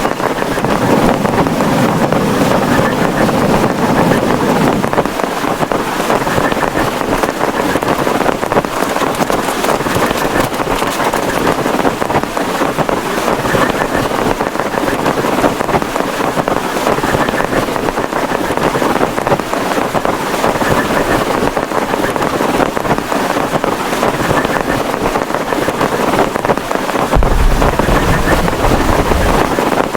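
Heavy rain falling steadily on a plastic tarpaulin, a loud, even hiss of dense drops. Near the end a deep low rumble comes in for a few seconds.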